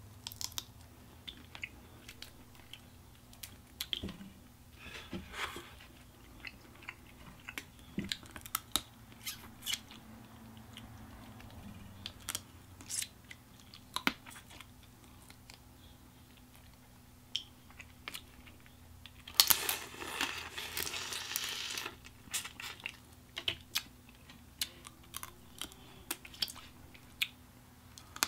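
Close-up chewing and crunching while eating dry-rubbed crawfish, with many scattered sharp clicks and cracks of shell. About two-thirds of the way through comes a louder, noisier stretch of about two seconds.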